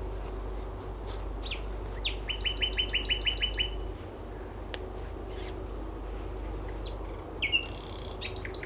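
Common nightingale singing: short phrases separated by pauses, one of them a fast run of about nine repeated notes lasting over a second, with a steady low hum underneath.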